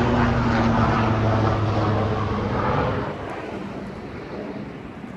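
Aircraft engine droning steadily, fading away about three seconds in.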